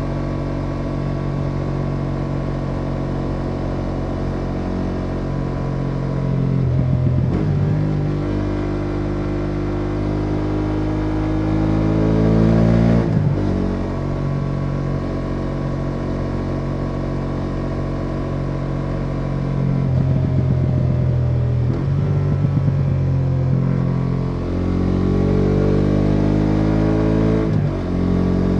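BMW F850 GS Adventure's parallel-twin engine pulling in fourth gear at about 110 km/h, heard from the rider's helmet camera. The engine note rises twice as the bike accelerates and drops back suddenly after each rise, about halfway through and near the end.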